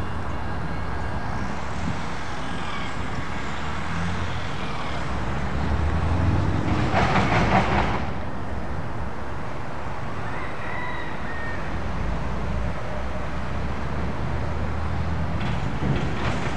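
Steady low rumble of an approaching train and street traffic, with a brief louder, noisy rush about seven seconds in.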